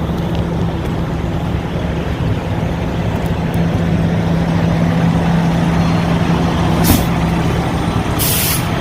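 Semi-truck diesel engine running steadily. Near the end comes a short, sharp hiss of released air from the truck's air brake system, with a brief click a little before it.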